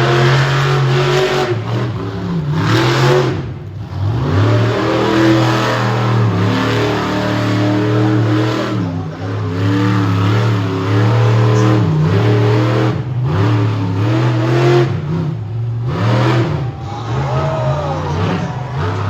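Monster truck engine running loud and revving hard, its pitch rising and falling again and again as the throttle is worked, with several brief lifts off the throttle.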